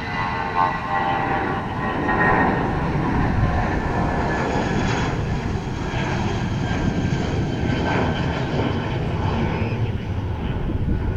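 Jet airliner engines rumbling as the plane passes, getting louder over the first few seconds, with a thin whine in the first couple of seconds.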